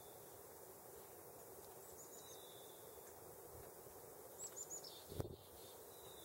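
Near-silent outdoor quiet broken by faint, thin, very high chirps from a small bird, a quick run of three notes about two seconds in and another short run of falling notes about four and a half seconds in. A single sharp knock follows just after five seconds.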